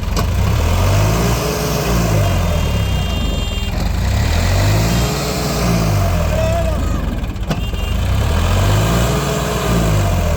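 A vehicle engine revving up and falling back again in three slow surges, about every three to four seconds, typical of a stuck vehicle being driven to pull free.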